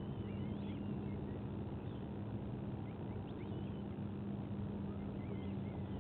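Steady low hum and rumble of outdoor ambience at a nest-cam microphone, with a few faint, short chirps of small birds scattered over it.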